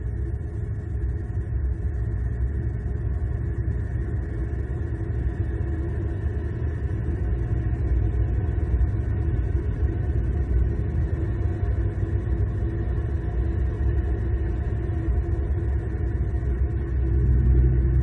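Steady low rumble of distant road traffic, with no sharp events, swelling slightly near the end.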